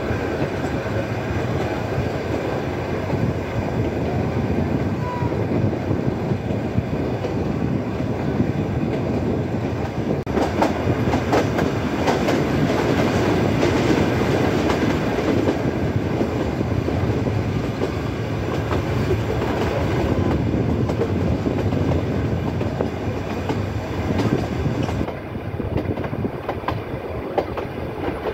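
Nilgiri Mountain Railway passenger coaches running along the track, heard from an open coach window: a steady rumble of wheels on rails with rattling. A run of sharper clatter from the wheels comes about ten to twelve seconds in, and the sound eases slightly near the end.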